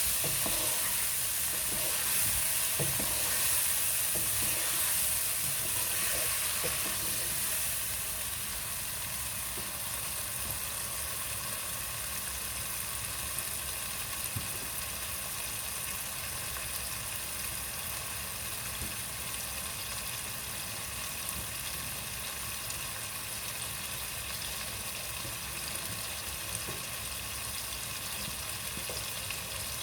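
Spiced masala with freshly added tomato puree and green chillies sizzling in oil in a cooking pot as it is stirred, with a few faint knocks of the spoon. The sizzle is louder for the first several seconds, then settles to a steady hiss.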